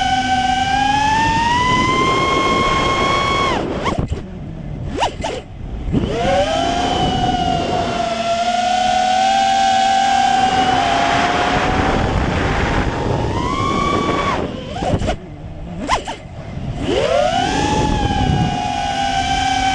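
A 5-inch quadcopter's motors whine in flight, the pitch rising and falling with throttle. The whine drops away twice, about four and fifteen seconds in, with quick swoops, then spools back up. Wind noise runs underneath.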